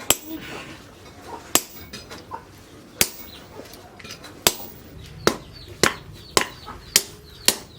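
Hand hammer striking steel on an anvil, about nine sharp blows with a short metallic ring, coming every second and a half at first and then quickening to about two a second.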